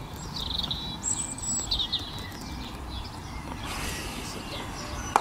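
Small birds chirping a few short high calls in the first two seconds over a steady low outdoor rumble, with one sharp knock right at the end.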